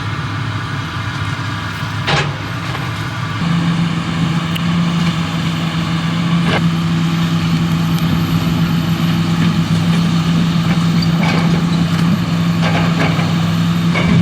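Tractor engine running hard under load, revving up about three and a half seconds in and holding there while knocking down trees. A few sharp cracks are heard over it, and a louder one at the end, which is called loud.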